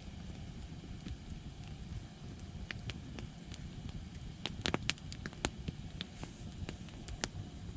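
Campfire burning, with irregular sharp crackles and pops over a steady low rumble; the pops come thickest about halfway through.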